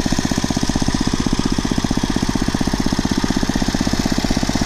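5 hp Briggs & Stratton single-cylinder horizontal-shaft engine on a garden tiller idling low and steady, its firing pulses even. It runs smoothly without hunting up and down, freshly tuned up with a new spark plug, air filter, oil change and carburetor mixture adjustment.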